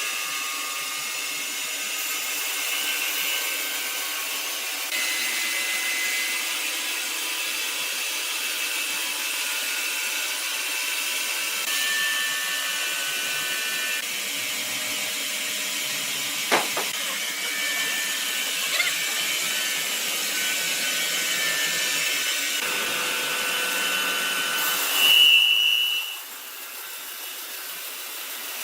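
Sawmill saw running through wood: a steady high-pitched whine with machine noise. A loud, sharp squeal comes near the end and the noise drops off just after it.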